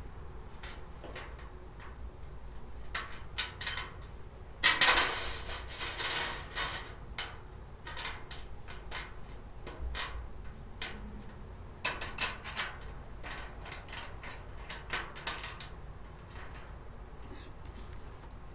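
Storage cart parts being handled and fitted together: scattered clicks and clinks, with a longer burst of rattling and rubbing about five seconds in and more clicks near twelve and fifteen seconds.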